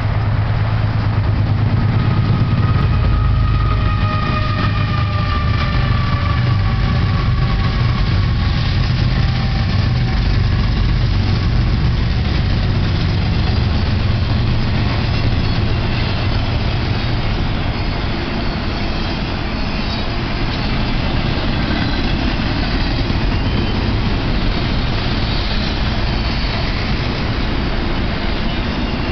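BNSF diesel freight train passing close by: a heavy low rumble with a slowly falling whine in the first ten seconds or so, then double-stack intermodal container cars rolling past with steady wheel-on-rail noise.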